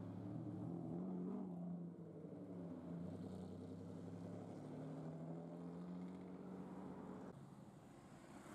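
Lamborghini Diablo's V12 engine running at low revs as it crawls through traffic: a steady low drone with slight rises in pitch. About seven seconds in, it gives way abruptly to a quieter engine and street noise.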